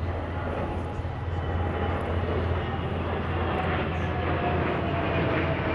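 Jet engines of a NATO Airbus A330 MRTT tanker and four F-16 fighters flying past in formation: a steady roar with a whine slowly falling in pitch, growing a little louder.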